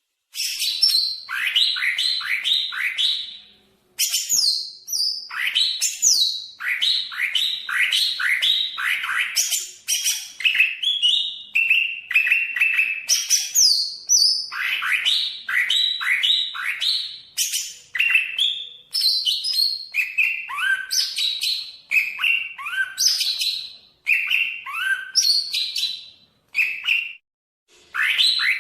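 Cucak ijo (green leafbird) singing: fast runs of sharp, loud notes that sweep downward, strung into changing phrases with brief pauses.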